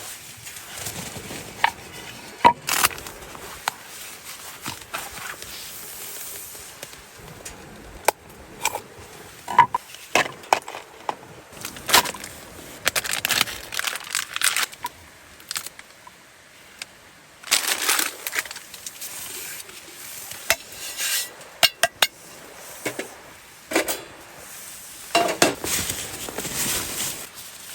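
Camp cookware being handled: scattered metal clinks and knocks, some briefly ringing, mixed with short scraping and crunching noises.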